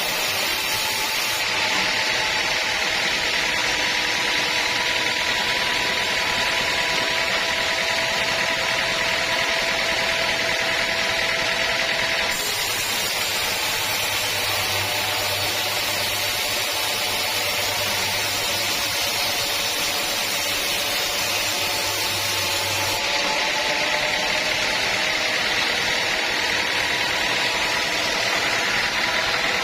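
Sawmill saw cutting through a teak log: a steady machine noise with a high whine, which changes abruptly a few times.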